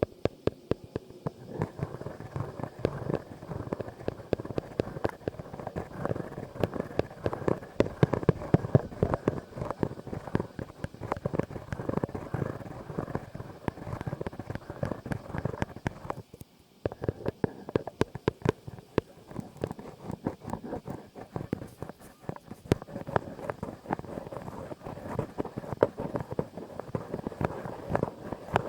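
Dense, close-up crackling and clicking, a rapid irregular patter of sharp snaps, breaking off for about half a second around 16 seconds in.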